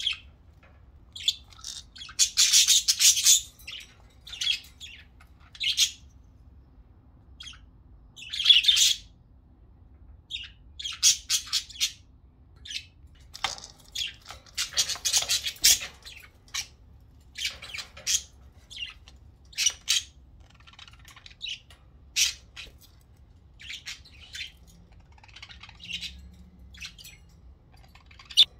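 Several budgerigars chirping and squawking in short, irregular bursts of chatter with brief pauses between them.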